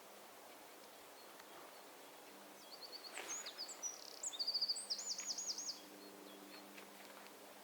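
A songbird sings one varied phrase of about three seconds, high-pitched, made of quick trills and repeated up-and-down notes, starting a few seconds in, over a faint steady low hum.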